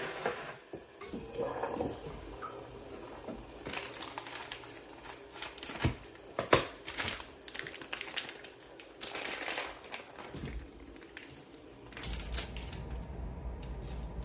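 Irregular taps, clicks and knocks of small objects being handled, with light rustling; the sharpest knock comes about six and a half seconds in, and a low hum sets in near the end.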